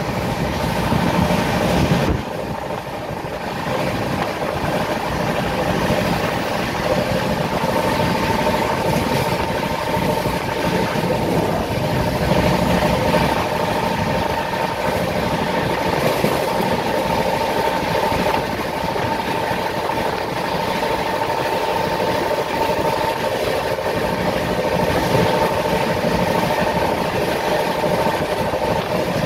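Passenger train running at speed, heard from an open coach window: a steady rush of wheels on the rails with a steady whine running through it. The noise dips briefly about two seconds in.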